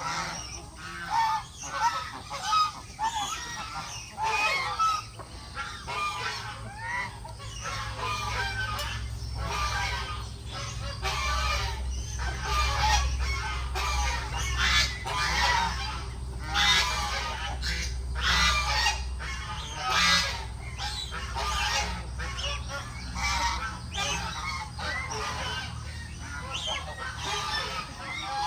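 A flock of domestic geese honking: many short calls overlapping continuously, with other farm poultry mixed in.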